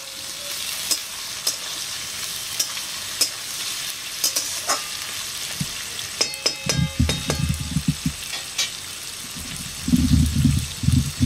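Potatoes and onions sizzling in hot oil in a kadai, with a metal spatula scraping and clicking against the pan as they are stirred. A little past halfway comes a brief ringing knock of the spatula on the pan. Bursts of low rumbling follow around the middle and again near the end.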